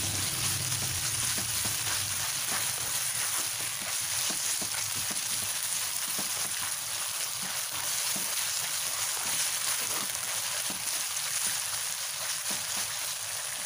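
Small pieces of chicken frying in chili paste in a non-stick wok, sizzling steadily while a spatula stirs and scrapes them, with many small crackles throughout.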